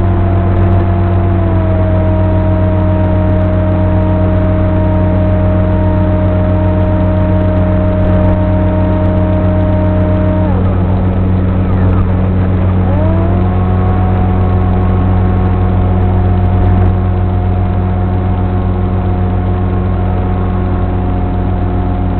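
Electric brushless motor and propeller of a Sonic Model AR Wing FPV flying wing in flight, a steady whine over a steady low rumble. The whine drops slightly about a second and a half in, stops about ten seconds in as the throttle is cut, and rises back a few seconds later as power comes back on.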